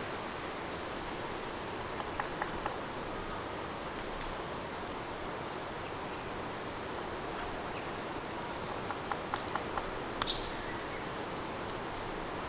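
Steady rain falling, with faint high chirps twice and a few small light ticks in two short clusters.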